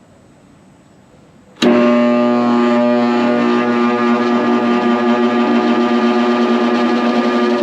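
Yates American Y30 bandsaw switched on about a second and a half in: its electric motor starts with a sudden loud, steady electrical hum as it slowly brings the heavy wheels up to speed, which takes about 6 seconds.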